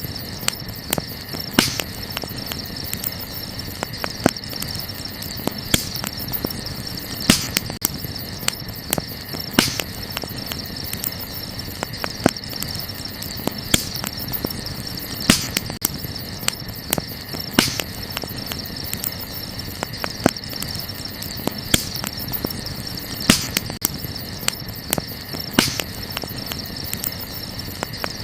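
Wood fire crackling, with frequent sharp pops and snaps a second or two apart, over a steady high chirring of night insects.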